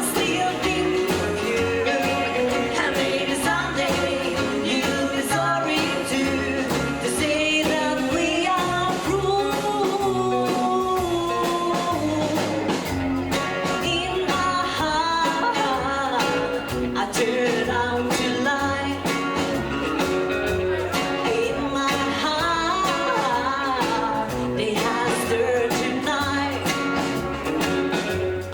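A live rockabilly band playing, with a singer over guitar, a steady bass line and drums.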